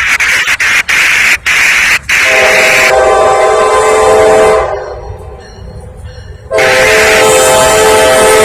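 Norfolk Southern locomotive's multi-chime air horn sounding at a grade crossing: a long blast from about three seconds in, a short break near the middle, then another long blast near the end. Before the horn, a loud crackling noise with rapid dropouts.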